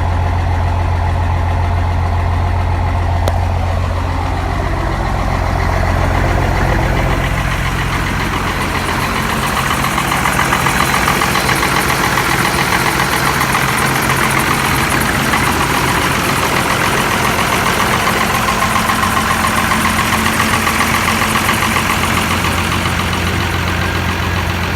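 Cummins 5.9-litre six-cylinder turbo diesel in a 1991 Dodge W250 idling after a cold start, with a steady diesel clatter; the owner calls it a bit rough in the cold. About seven seconds in its tone shifts, from a deep low hum to a more clattering sound.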